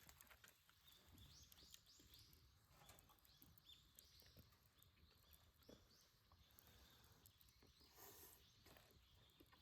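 Near silence outdoors, with faint small-bird chirps scattered through it and a few soft clicks.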